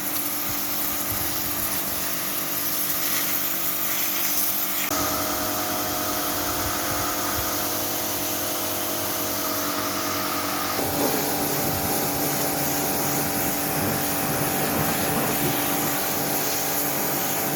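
Steady machine running, a hum of several fixed tones over a hiss, jumping abruptly to a new pitch about five seconds in and again about eleven seconds in.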